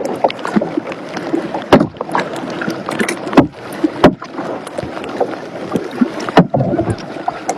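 Kayak being paddled: paddle strokes in the water, with a few sharp knocks scattered irregularly through the strokes.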